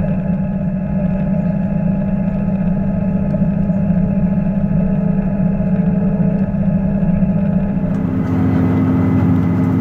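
Steady running noise inside a moving diesel train carriage: a low engine hum over track rumble. About eight seconds in it changes abruptly to a different engine hum with more hiss.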